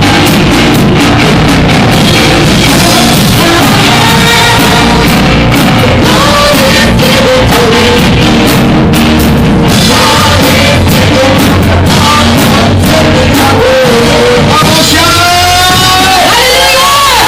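Loud church praise music: singing over a band with a drum kit. Near the end the drums thin out, leaving a voice sliding up and down in pitch.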